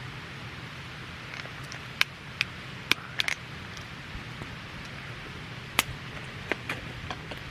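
Wood fire crackling: irregular sharp pops and snaps over a steady background hiss.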